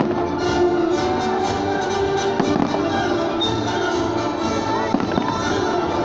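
Fireworks salute going off: frequent bangs and crackles throughout, heard over music with sustained tones.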